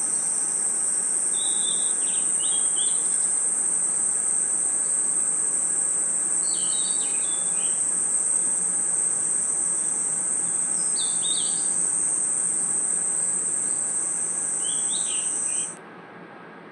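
A night chorus of crickets and other insects: a loud, steady, very high trill, with short clusters of chirps about every four seconds. Near the end the trill cuts off suddenly, leaving a much quieter background.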